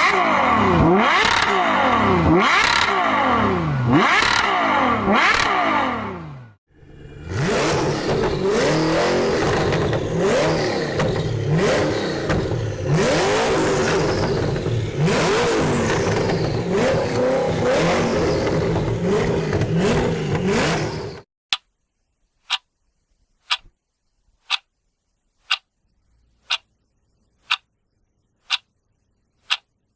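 A car engine revving up and down again and again, in two stretches with a short break between them. After about two-thirds of the time it stops and a clock-like tick sounds about once a second, a countdown.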